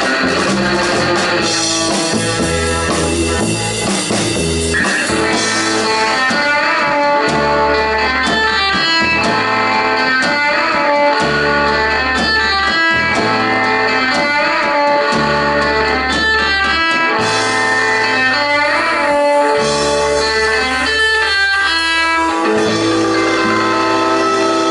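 Live rock and roll band playing: electric guitar picking a melodic line over a pulsing bass and a drum kit.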